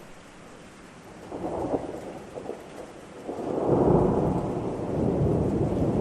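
Thunder rumbling over steady rain. A first short rumble comes about a second and a half in, then a longer, louder low rumble builds from about three seconds in.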